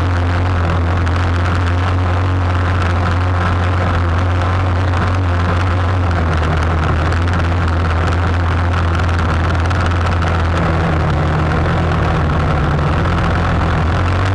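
Boat engine running steadily at constant speed, a low, unchanging drone.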